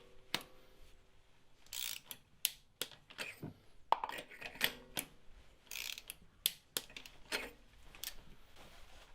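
Small ratcheting torque wrench clicking in short, irregular bursts as spark plugs are tightened to 18 Nm in the cylinder head.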